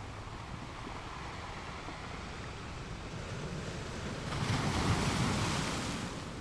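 Ocean waves washing onto a shore: a steady low rumble of surf, then a louder wave rushing in with a hiss about four seconds in, ending abruptly near the end.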